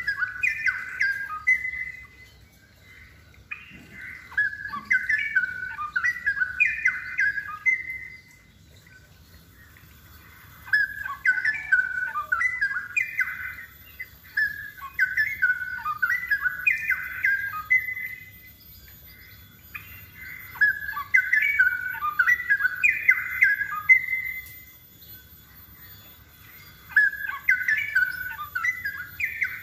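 Straw-headed bulbul singing a string of rapid warbled song phrases, each a few seconds long, with short pauses between.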